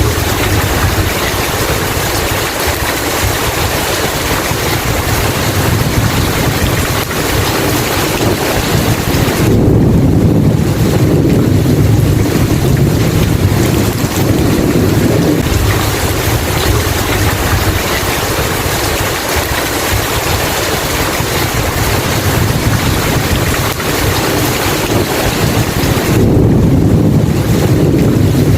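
Steady heavy rain with a low rumble of thunder that swells twice, about ten seconds in and near the end.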